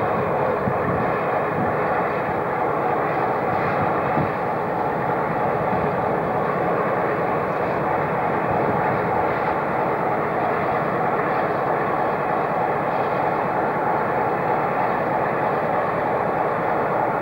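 Steady mechanical drone of a train standing at the platform, an even hum with no change in pitch or level.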